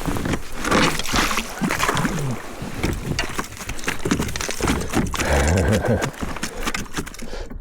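Kayak on the water: water and hull noise with a dense, uneven rumble.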